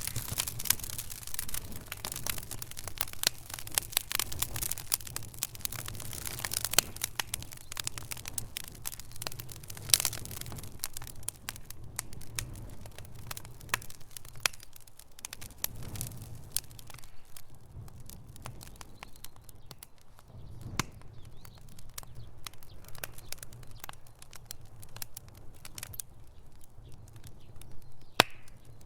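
Wood fire in a fireplace crackling and popping: dense crackle for the first dozen seconds, then sparser pops, over a steady low rumble, with one sharp pop near the end.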